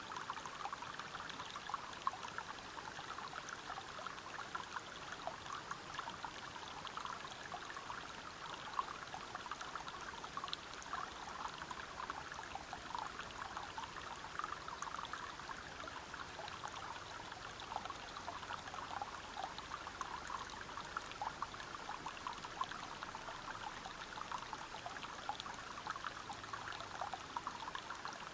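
Water cascading over rocks in a forest river or waterfall, a steady splashing flow flecked with many small droplet splashes.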